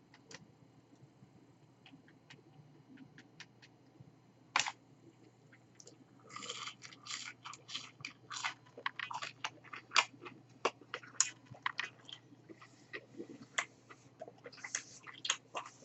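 A person chewing fried, breaded McDonald's chicken nuggets: scattered faint clicks at first, then crisp, irregular crunching from about six seconds in.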